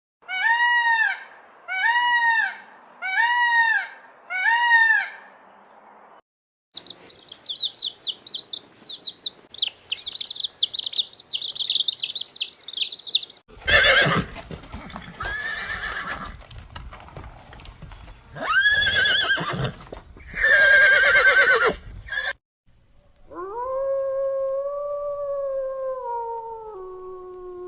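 A string of different animal calls. First come four short arched calls, evenly spaced, then rapid high chirping, then several loud shaky calls, and finally one long call that falls in pitch in steps.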